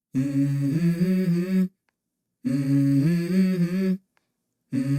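A voice humming the same short melody in phrases of about a second and a half, with short silent gaps between them; a third phrase begins near the end.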